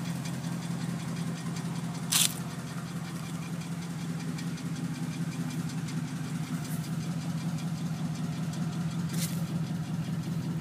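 1949 Ford Custom Club Coupe's engine idling with a steady, even low hum. A short sharp click cuts through about two seconds in, with two fainter ones later.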